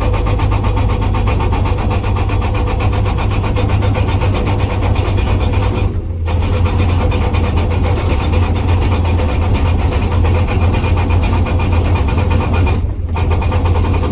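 Hydraulic breaker on a Komatsu PC200 excavator hammering hard rock in rapid, even blows over the excavator's running engine, stopping for a moment twice, about six seconds in and near the end.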